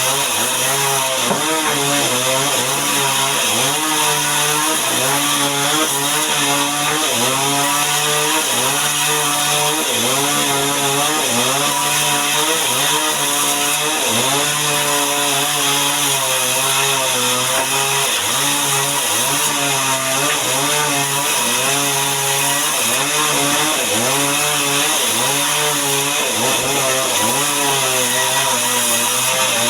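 Chainsaw running under load, sawing mahogany into boards; its engine pitch sags and recovers every second or so as the chain bites.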